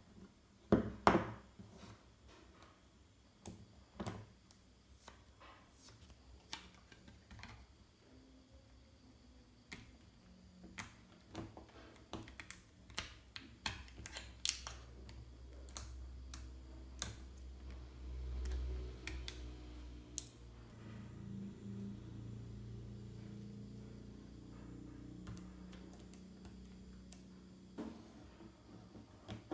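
Small magnetic balls clicking and snapping together as a model is assembled, with irregular sharp clicks throughout, the loudest about a second in. A low rumble runs under the clicks through the second half.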